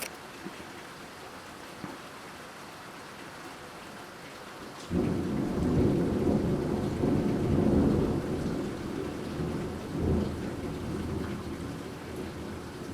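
Heavy rain falling steadily, then about five seconds in a clap of thunder starts suddenly and rolls on as a long, loud low rumble, peaking a few seconds later with a second surge before slowly dying away under the rain.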